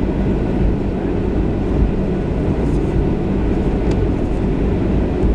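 Steady low cabin rumble aboard a Boeing 737-700, its CFM56-7B22 engines running.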